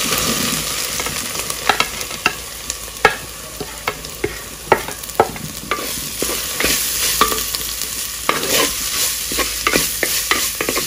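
Ground coconut paste frying in a hot coconut-oil tempering, sizzling as it is stirred, with frequent sharp scrapes and knocks of the utensil against the pan. The sizzle is loudest about the first second and then eases off; this is the stage where the coconut's raw smell is cooked off.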